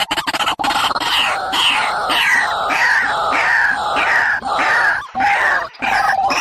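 A bird calling in a quick series of short falling notes, about three a second, beginning about half a second in. Lower notes join in the second half, broken by two short gaps.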